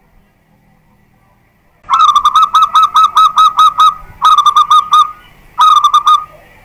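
Zebra dove (perkutut) singing, starting about two seconds in: a quick run of about eight clipped, ringing coos, then two shorter runs of about five and four.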